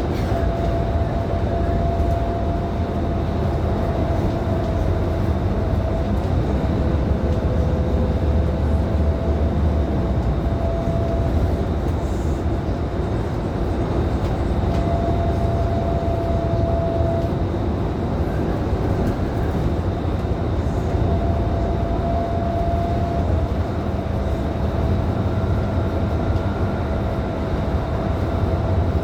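Scania K310IB 6x2 city bus running at a steady pace, its rear-mounted diesel engine giving a deep, continuous rumble with road noise. A faint whine comes and goes every few seconds.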